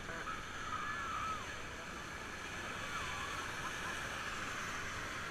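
Steady rushing of river rapids around a raft, with faint voices calling in the background.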